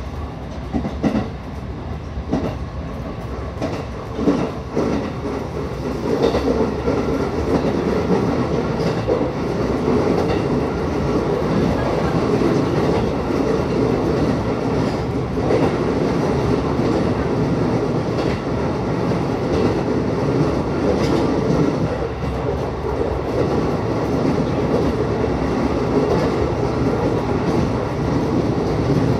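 Running noise of a local electric train heard from inside the carriage. Wheels click over rail joints in the first few seconds, then the noise turns into a louder, steadier rumble from about six seconds in.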